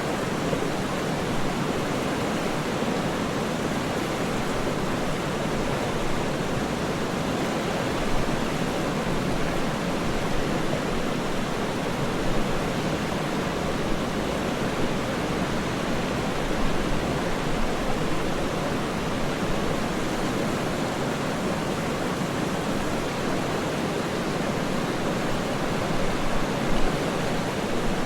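Steady, even rush of a waterfall, with slight swells in loudness now and then.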